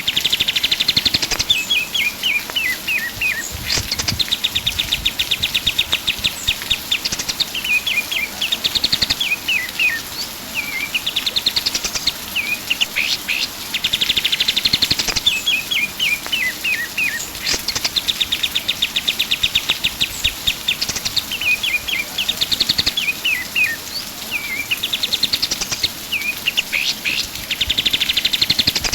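Kapas tembak songbird singing continuously and loudly: phrases of very rapid high trills alternate with strings of short falling chirps, the pattern recurring every few seconds.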